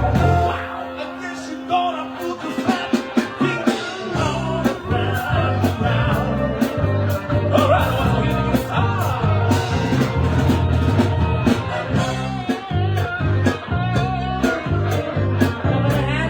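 Live band playing a blues-rock number with guitar and drums. The bass drops out for the first few seconds and comes back in about four seconds in.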